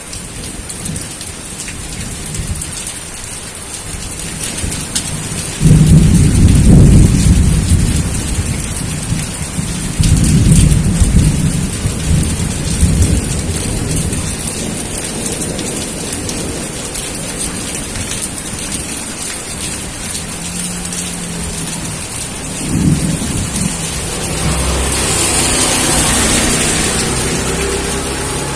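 Steady rain with thunder. A sudden loud rumble of thunder comes about six seconds in, another about ten seconds in, and a weaker one a few seconds before the end.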